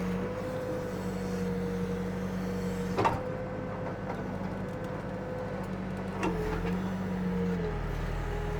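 Backhoe diesel engine running steadily under hydraulic load, with a held whining tone over the engine hum. A sharp knock about three seconds in and a lighter one past six seconds, where the engine note briefly dips.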